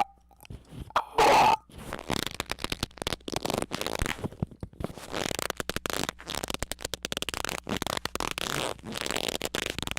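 Squeaking noises: a short loud pitched squeak about a second in, then a long choppy run of rapid squeaky, crackling rubbing sounds.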